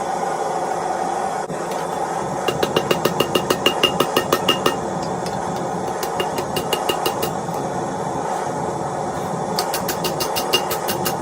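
Three runs of quick, ringing hammer blows on hot steel at the anvil, several strikes a second, over a steady running hum.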